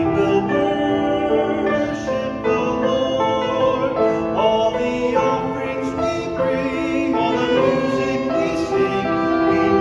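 A small church ensemble performing a sacred song: voices singing in harmony over instrumental accompaniment, with held chords that change every second or so.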